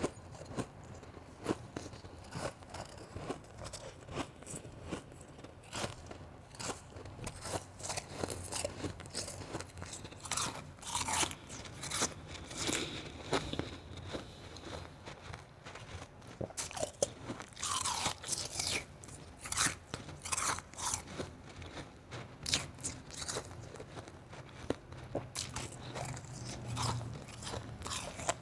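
Close-up mouth sounds of eating crunchy blended and shaved ice: irregular biting and chewing crunches throughout, louder and denser from about ten seconds in.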